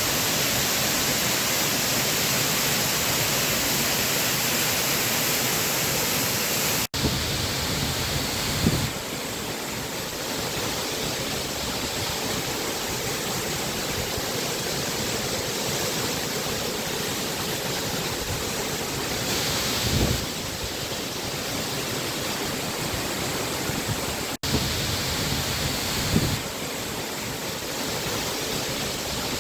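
Waterfall's falling water rushing in a steady, even wash of noise. It cuts out for an instant twice, about 7 and 24 seconds in, and a few brief low bumps sound on the microphone.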